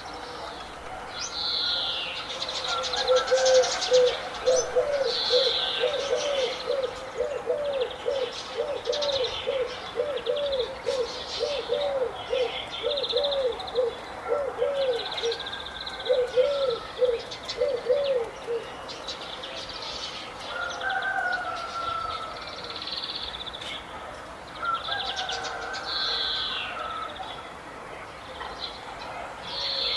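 Several birds calling together: high chirps and trills throughout, and from a few seconds in, a low call repeated about twice a second for some fifteen seconds before it stops.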